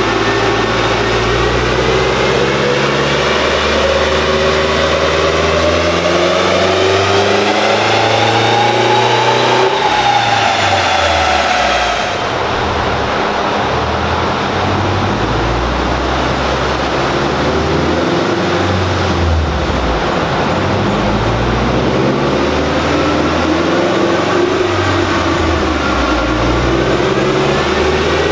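Turbocharged Subaru Crosstrek FB20 flat-four engine on a chassis dyno, pulling up steadily in revs for several seconds, then lifting off about ten seconds in; the revs climb again near the end.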